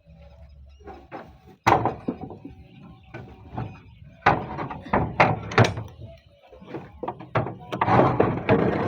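A series of sharp knocks and thuds from roofing work as roof tiles are handled and set in place. Four separate knocks come in the first six seconds, with a busier cluster near the end.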